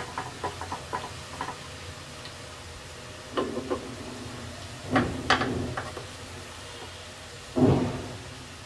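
Chopped garlic frying in ghee, sizzling steadily in the pan, with a wooden spatula scraping and clicking against the pan in the first second or so. Three louder sudden noises come about three and a half, five and seven and a half seconds in.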